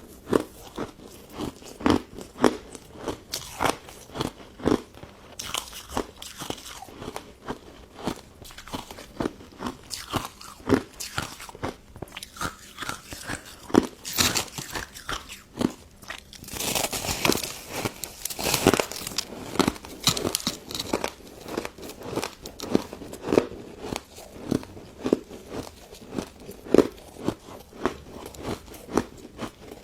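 Close-miked biting and chewing of a crunchy pink crystal snow ice dessert: a steady run of crisp crunches, a few a second. About halfway through comes a denser, brighter stretch of crackling crunch lasting a few seconds.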